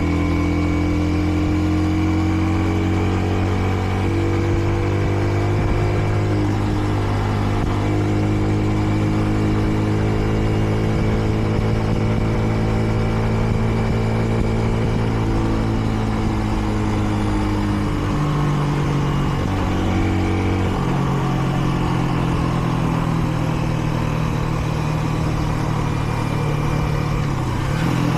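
Kreidler Dice CR 125 motorcycle's 125 cc engine running steadily under way, with wind and road noise. The engine note shifts about two-thirds of the way through and then settles again. The bike is still in its running-in period and held to moderate speed.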